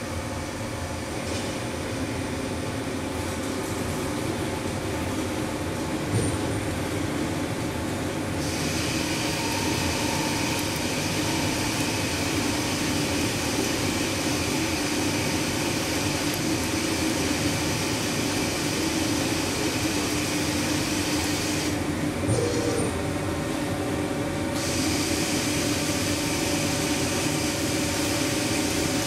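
Weiler 160 CNC lathe running while turning a threaded nipple: a steady machine hum with a high hiss that comes in about a third of the way through, drops out for a couple of seconds about three-quarters through, then returns. A short knock sounds twice.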